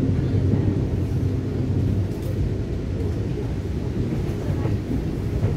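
Interior running noise of a Taiwan Railway EMU900 electric multiple unit in motion, heard from inside the passenger car: a steady low rumble.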